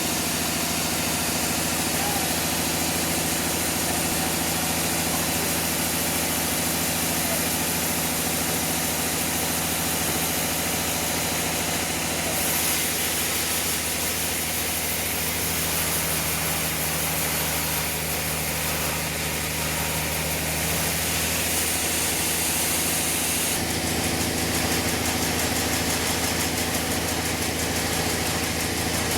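Sawmill machinery engine running steadily under a constant hiss, which brightens twice for a few seconds in the middle.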